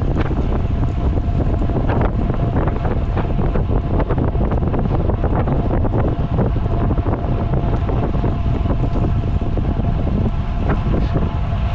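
Wind buffeting the microphone of a rider's camera on a road bike at speed, a loud steady rumble; the rider was unsure whether it was a headwind or a crosswind.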